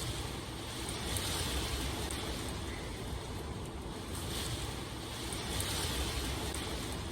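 Steady rainfall, a continuous rushing patter that swells and eases a few times.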